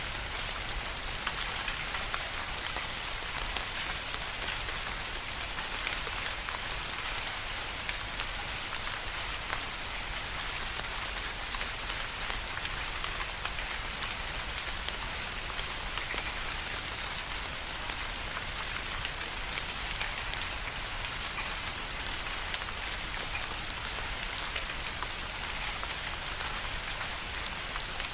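Steady rain falling, an even hiss dotted with many small, sharp drop impacts.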